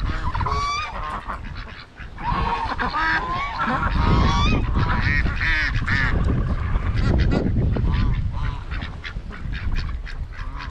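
Geese honking in short repeated calls, with wind rumbling on the microphone from about the middle on.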